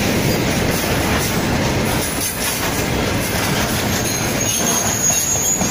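Railway cars passing close by at speed: a steady rumble and clatter of wheels on the rails, with a thin, high wheel squeal coming in near the end.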